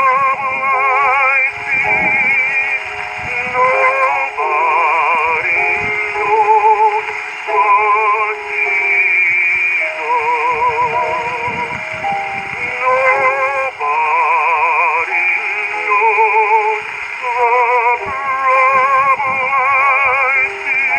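Baritone singing a spiritual with a wide vibrato, played from a 1922 78 rpm record; the sound is narrow and thin, with almost nothing above about 3 kHz, as on an early acoustic recording.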